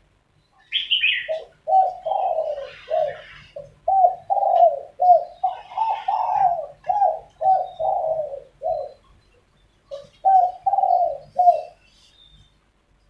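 Spotted doves cooing back and forth in a long run of short coos, with a brief pause about nine seconds in. A small bird chirps briefly near the start.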